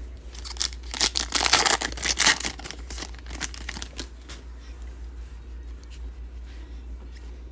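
Foil trading-card pack wrapper being torn open and crinkled: a dense burst of tearing and crackling from about a second in to about two and a half seconds, then softer rustling and clicks.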